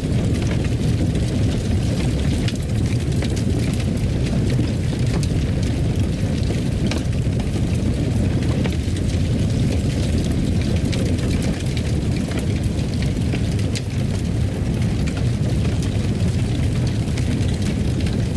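Fireplace fire burning: a steady low rumble with many small, scattered crackles and pops.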